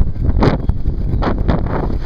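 Loud wind buffeting the microphone: a heavy, even rush of noise with sharper gusts about half a second in and again past the middle.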